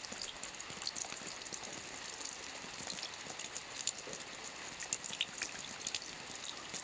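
Steady rain falling, an even hiss with many individual drops pattering irregularly.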